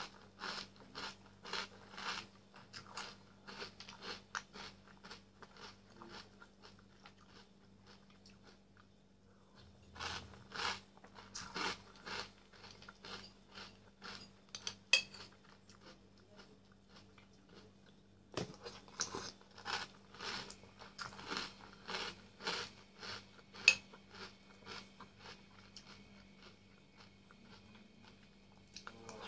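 Close-up chewing of Nesquik chocolate cereal balls in milk: steady rhythmic crunching, about two to three crunches a second, in three long runs with short pauses between mouthfuls. Two sharp clicks stand out, one near the middle and one about two-thirds of the way through.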